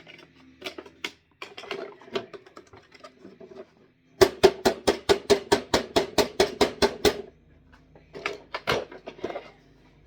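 Small screwdriver scraping and picking at packed dirt in a hard plastic vacuum cleaner part, with scattered light clicks, then a quick run of about twenty sharp taps, six or seven a second, near the middle.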